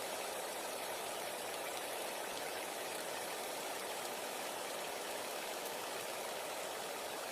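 Steady rain falling, an even hiss that doesn't change in level.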